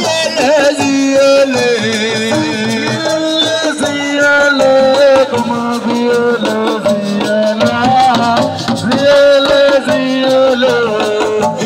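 Live assiko band music: fast hand-drum and shaker rhythm under a wavering melody line.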